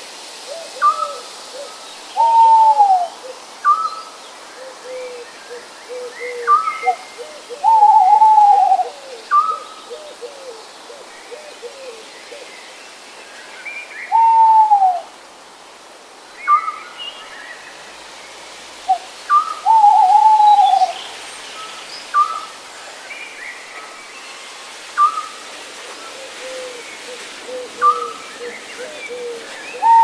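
Birds calling in a nature soundscape: a loud call about a second long that slides down in pitch comes back roughly every six seconds, over short higher chirps about every second and a half and occasional runs of quick low notes, with a faint steady hiss underneath.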